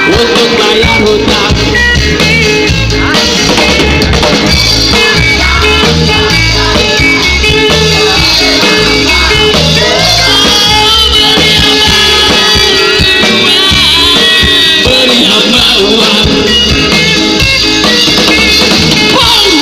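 Band music with drum kit and guitar playing a steady beat, with melodic lines above it.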